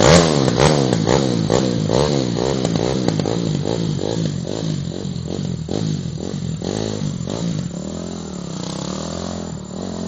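Trail motorcycle engine revving up and down in quick succession, settling into a steadier note and fading over the last few seconds.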